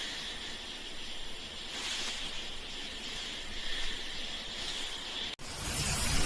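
Snake hissing steadily, a drawn-out hiss. Just after five seconds it cuts off abruptly and a louder, rougher hiss takes over.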